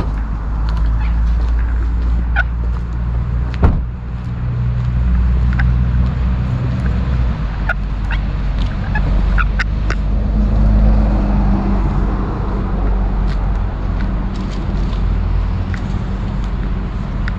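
A vehicle engine running steadily at low revs, swelling slightly a couple of times, with scattered clicks and one sharp knock a few seconds in.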